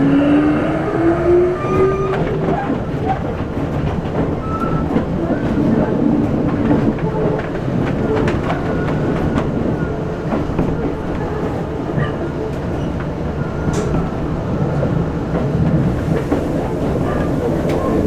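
Keisei 3400-series electric train running, heard from inside the car: a whine that rises in pitch over the first couple of seconds as it gathers speed, then a steady rumble with wheels clicking over rail joints and points.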